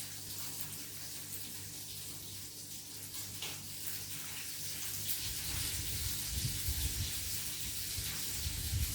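Food frying in hot oil in a pan: a steady sizzling hiss with small crackles. Low rumbling bumps join in the second half.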